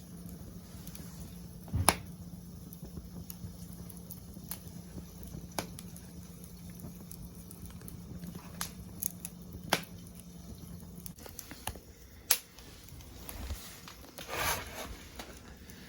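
Wood fire crackling, with sharp pops every few seconds, the loudest about two seconds in, and a brief hiss near the end.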